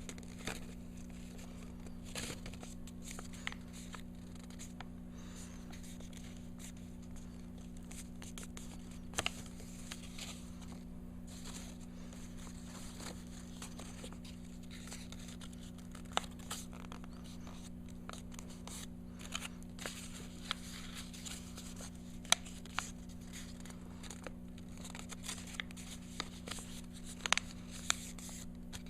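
A sheet of origami paper being folded and creased by hand, with irregular crinkles and short sharp snaps of the paper over a steady low hum.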